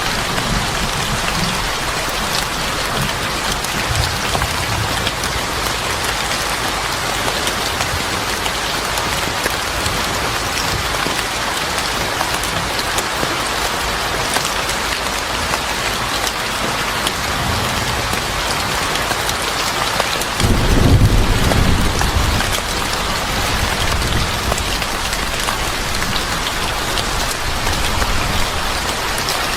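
Steady heavy rain falling, with a deep rumble of thunder swelling up about two-thirds of the way through and fading after a couple of seconds.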